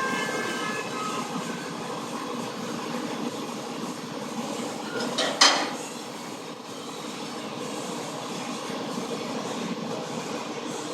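Car engine running steadily with coolant mixed into its oil, with a single sharp knock about five and a half seconds in.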